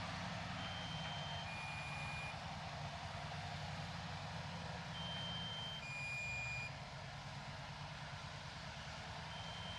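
Diesel engine of heavy earth-moving equipment running steadily, with a two-tone electronic reversing alarm: a higher beep, then a lower one, each just under a second, the pair repeating about every four seconds.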